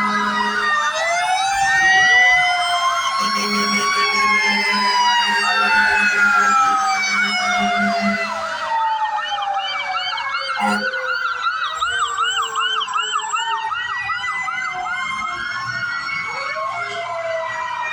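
Several fire truck sirens sounding at once: slow wails rising and falling over one another, joined about halfway by fast repeating yelp sweeps. A low steady tone sounds on and off through the first half.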